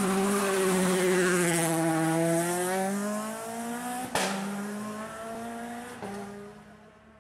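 Racing-car engine sound effect: the engine note dips and then climbs as if revving, with a sharp hit about four seconds in and a lighter one about six seconds in, then it fades away.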